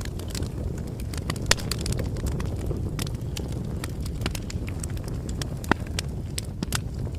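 Wood fire crackling: irregular sharp pops and snaps over a steady low rumble of burning, with louder pops about a second and a half in and near six seconds.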